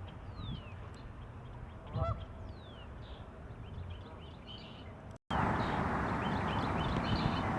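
A Canada goose honks once about two seconds in, amid small birds chirping and short falling whistles. About five seconds in the sound cuts out for an instant and gives way to a louder, steady hiss.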